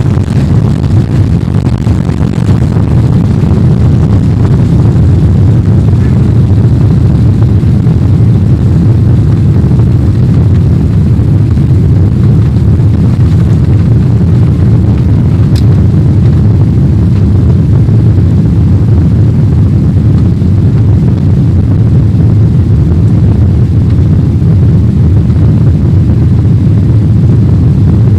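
Airbus A380 taking off, heard from inside the cabin: a loud, steady, low rumble of engines and airflow.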